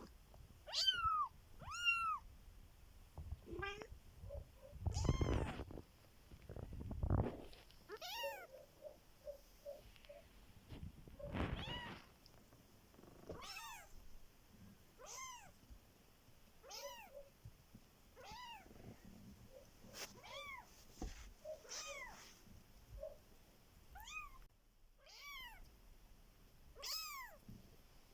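Three-week-old Bengal kittens mewing: short, high, thin calls that rise and fall, one every second or two. A few low rustles and bumps come in the first half.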